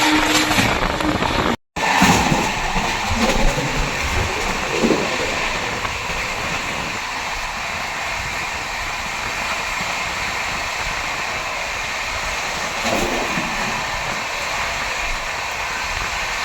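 Steady running noise of a moving express train. The sound drops out briefly twice in the first two seconds.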